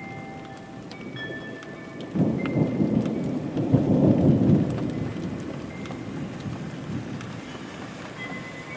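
Steady rain with a thunderclap rumbling in about two seconds in, loudest around four seconds, then rolling away over the next few seconds.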